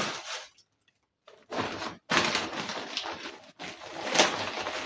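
Plastic packaging and shopping bags rustling and crinkling as groceries are handled, in several bursts with short gaps of silence between them.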